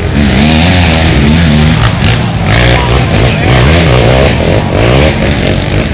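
Several racing ATV engines revving hard at once, loud, their pitch climbing and dropping back again and again as the quads accelerate through the gears.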